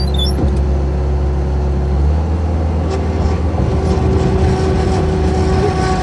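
A vehicle or machine engine running steadily. About two seconds in, its note shifts and turns rougher.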